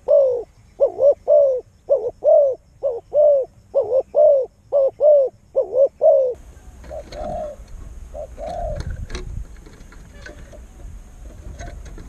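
A bird calling in quick pairs of short rising-and-falling notes, repeated about seven times over the first six seconds. After that come two fainter calls among scattered knocks and rustling.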